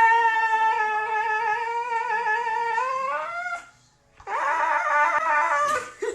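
A dog howling: one long, steady howl that rises slightly in pitch at its end, then after a brief pause a second, wavering howl.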